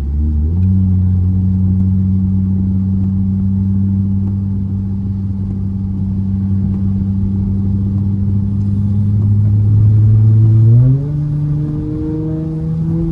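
Car engine heard from inside the cabin, pulling hard under acceleration onto a highway. Its note climbs about half a second in and holds, rising slowly, then changes pitch with a drop in loudness about eleven seconds in as the throttle eases or it shifts.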